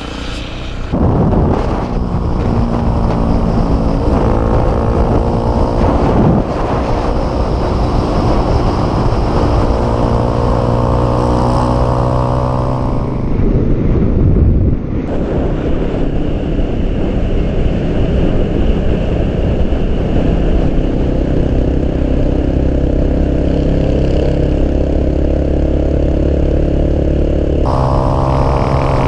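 Motorcycle engine under way, accelerating in repeated climbs of rising pitch, then holding a steady cruise, with wind rushing over the camera microphone. The bike ridden in the first part is a Yamaha TTR600 supermoto with a single-cylinder four-stroke engine.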